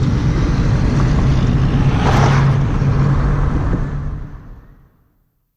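Engine hum and road noise inside a moving car, with a vehicle swishing past about two seconds in. Near the end the sound fades out to silence.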